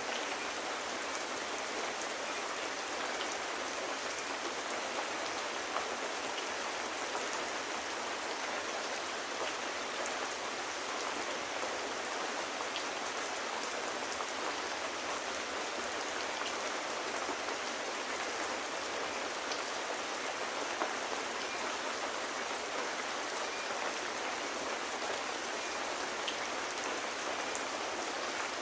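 Steady rain falling, an even hiss of drops with a few faint scattered ticks.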